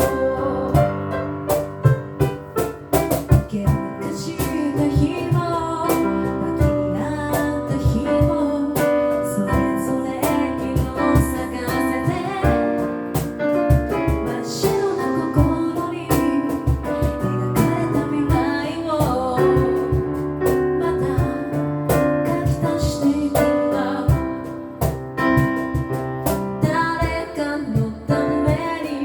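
A cappella group singing a pop ballad, several voices holding chords under a lead vocal, with sharp percussive strokes keeping the beat throughout.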